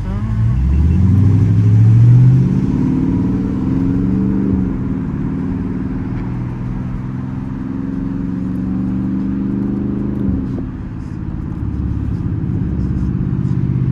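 Straight-piped, catless Dodge Charger R/T V8 exhaust heard from inside the cabin. The engine pulls hard with its note rising for about two seconds, drops at a shift a little over four seconds in, then cruises. It eases off briefly about ten seconds in and picks up again.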